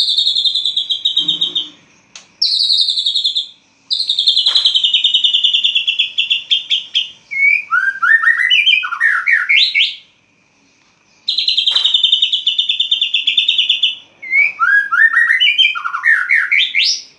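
White-rumped shama (murai batu) singing loudly: rapid trilled phrases of one to three seconds alternate with quick runs of short rising whistled notes, with a pause of about a second midway.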